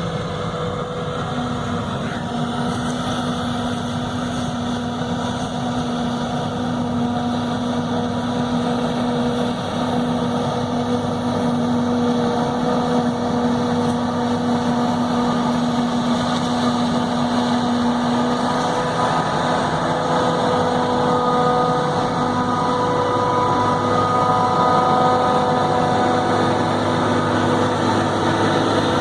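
Heavy diesel farm machinery at a maize silage harvest, running steadily, with several steady whining tones over the engine noise. It grows slightly louder toward the end.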